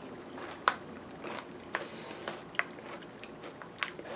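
Close-up chewing and crunching of granola with yogurt, with a metal spoon clicking against the bowl a few times; the sharpest click comes about two-thirds of a second in.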